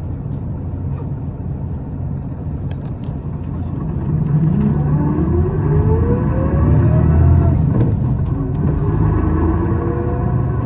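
Isuzu Erga city bus's diesel engine heard from inside the cabin, pulling and accelerating. A whine climbs in pitch from about four seconds in, breaks off near eight seconds at a gear change, then climbs again. This is a bus singled out for an unusual running noise.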